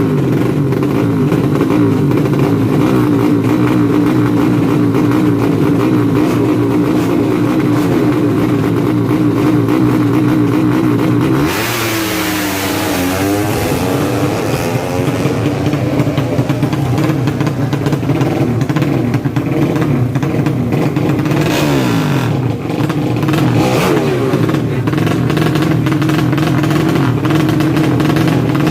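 200cc four-stroke underbone drag bike engine revving at high rpm, its pitch wavering constantly. Its pitch dips and climbs back up about twelve seconds in, and again about ten seconds later.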